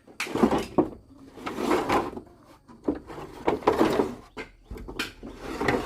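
A run of scraping and knocking sounds from things being moved and handled, several rough scrapes a second or so long broken by sharp knocks.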